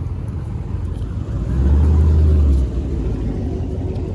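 Steady low rumble of a car on the move, with a louder, steady engine drone for about a second midway.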